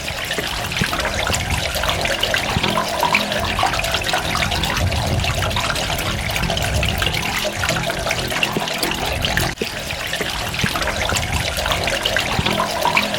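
Water running and trickling steadily, with a dense patter of small drops splashing. The sound briefly dips about nine and a half seconds in.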